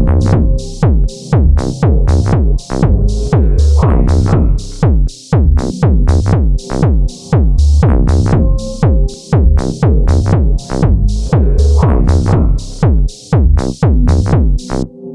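Electronic techno track: a drum-machine beat with an even kick and hi-hats under synth notes that drop in pitch on each stroke, with a few short breaks in the beat.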